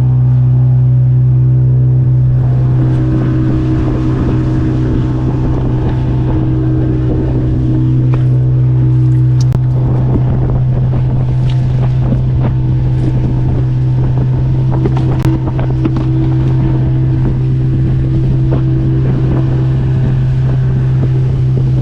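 Fishing boat's outboard engine running steadily under way after being repaired: a constant, unbroken low drone.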